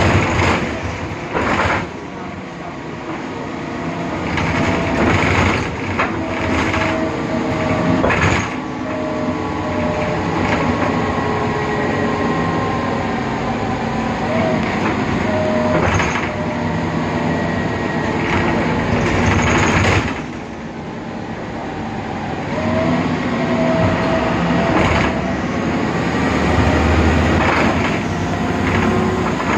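Interior of a BredaMenarini Avancity Plus city bus under way, its Deutz diesel engine and ZF six-speed Ecomat automatic gearbox running, with frequent rattles and knocks from the body. A short, broken high tone comes and goes several times.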